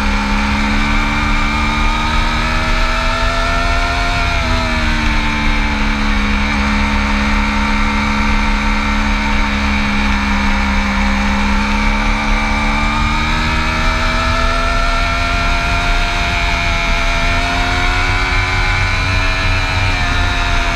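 Motorcycle engine pulling steadily as it rides. The pitch climbs slowly and then drops sharply about four seconds in, like a gear change. It holds steady before rising again over the last several seconds. Heavy wind rush on the microphone runs underneath.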